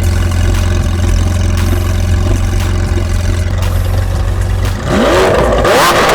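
Lamborghini Aventador SVJ's V12 idling steadily through cat-delete pipes and stock mufflers, then revved once about five seconds in, the pitch climbing for about a second and falling back.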